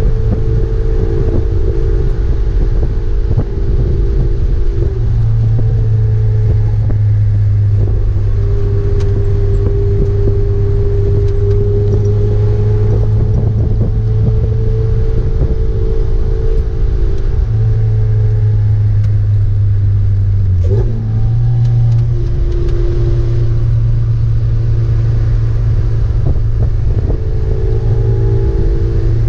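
Lotus Exige S engine running hard under way, heard from inside the cabin. It holds fairly steady revs that slowly rise and fall, with a brief change in note about 21 seconds in, over steady road and wind noise.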